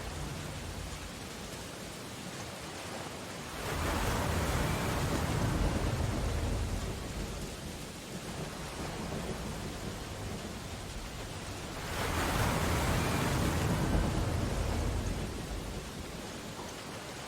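Steady rain against window glass over a stormy sea, with two louder rushing swells of storm noise, one about four seconds in and one about twelve seconds in, each rising suddenly and fading over a few seconds.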